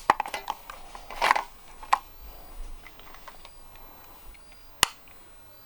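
Metal camping cookware and cutlery being handled: scattered light clinks and knocks, a louder clatter about a second in, and one sharp click near the end.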